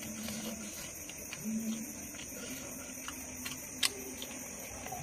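Mouth sounds of a person eating rice and fish by hand: soft chewing and smacking clicks over a steady hiss, with one sharper smack about four seconds in.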